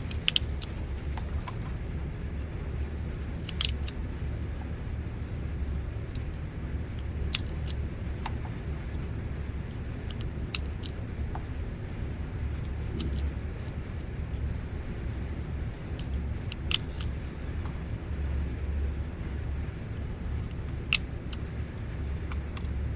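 Steady low rumble of a shooting range, with a faint, sharp gunshot crack every few seconds, about seven in all.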